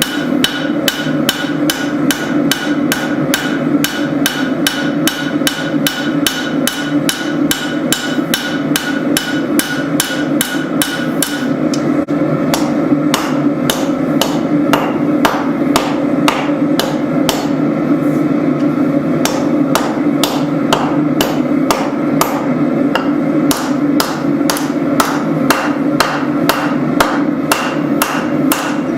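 Hammer blows on hot spring steel at the anvil, a steady run of about two to three strikes a second as a tanto blade is forged, over a continuous low hum.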